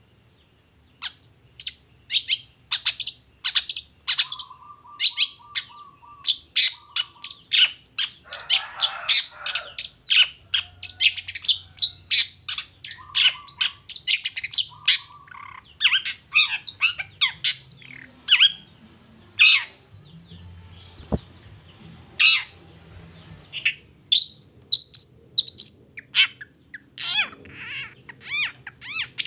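Long-tailed shrike (cendet) singing a fast, varied stream of sharp high chirps and harsh notes, broken by a few short rattling phrases and one harsh scratchy call.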